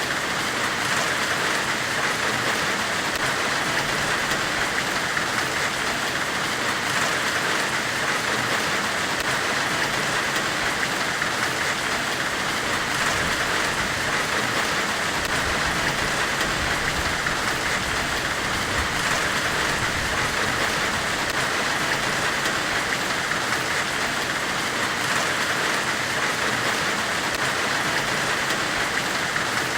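Steady, unchanging hiss of forge-weld white noise, strongest in the upper-middle range, with faint ticks recurring about every six seconds.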